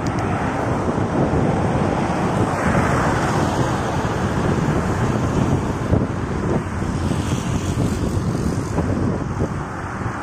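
Steady wind rushing over the microphone of a camera riding along on a moving bicycle, with road and traffic noise underneath.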